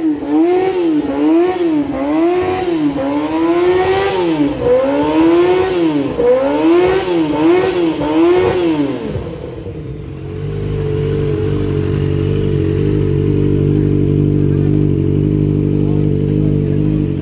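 Kawasaki Ninja ZX-25RR's 250 cc inline-four blipped through an Arrow Thunder aftermarket exhaust: about ten quick revs, roughly one a second, each rising and falling in pitch. A little past halfway the revving stops and the engine runs on at a steady speed.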